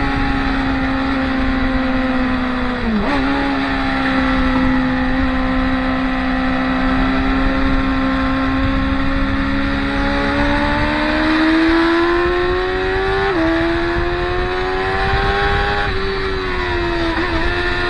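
Track-day motorcycle engines running at speed on a racing circuit. The note is held steady, dips briefly about three seconds in, climbs slowly later on, jumps up sharply near the end and then dips again.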